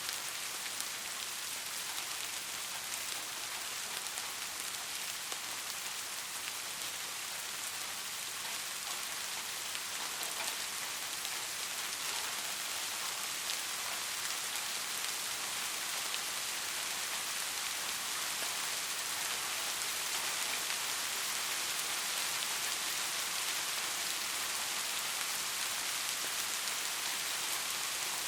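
Steady soft rain falling, an even hiss scattered with many small drop ticks and no thunder.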